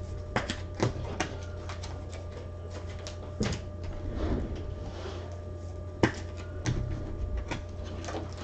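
Trading cards and packs being handled on a table: a string of short clicks, taps and rustles, the sharpest about six seconds in, over a steady electrical hum.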